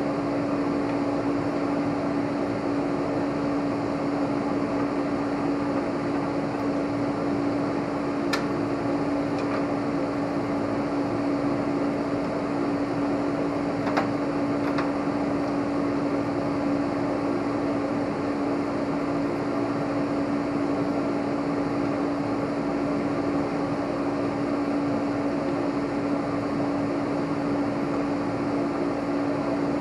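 Steady hum of a fan or blower, holding one constant tone under a noise haze, with a few light clicks partway through.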